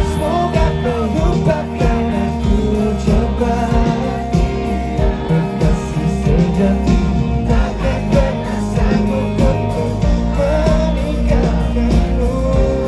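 Live pop-rock band music playing an instrumental passage between sung lines, with a wavering melody line over steady bass and drums.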